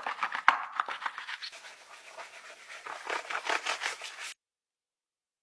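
Quick scratchy scrubbing strokes, several a second, easing off in the middle and picking up again in a rhythmic run before the sound cuts off abruptly to dead silence.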